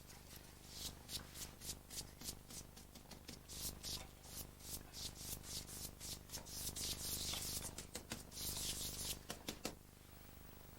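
A brush stroking over pasted backing paper: a series of quick, faint swishes, about two to three a second, running together into a longer stretch of continuous brushing in the second half.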